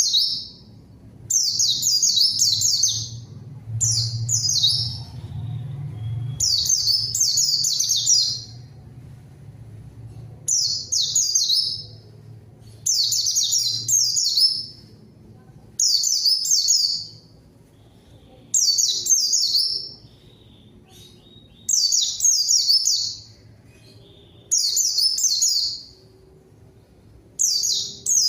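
White-eye (pleci) singing in full 'gacor' song: short, rapid twittering phrases of high chirps, each about a second or so long, repeated every two to three seconds.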